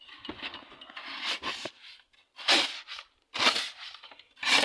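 Crunching and scraping in deep snow: a rustling at first, then three sharp crunches about a second apart.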